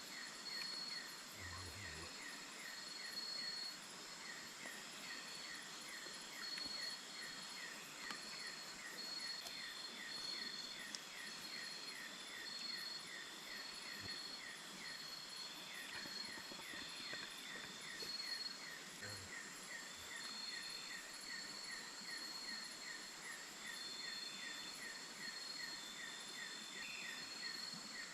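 Rainforest insect chorus: several steady high-pitched buzzes, one pulsing on and off, over a short chirp repeating about twice a second.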